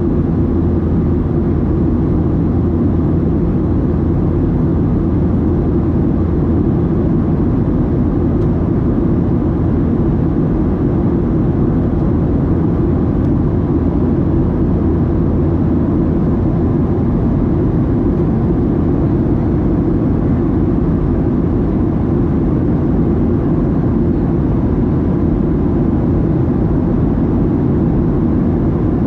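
Steady cabin noise of a Boeing 737-700 in flight: a loud, even low rumble from its CFM56-7B engines and the airframe, with no breaks or changes.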